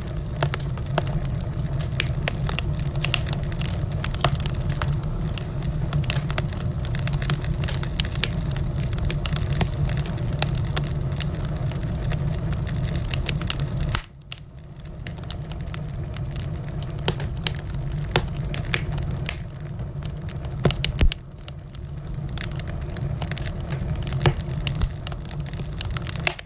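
Wood fire in a fireplace crackling, with frequent sharp pops over a steady low rumble of flames. The sound drops away suddenly about halfway through and again about three quarters of the way in, then comes back up.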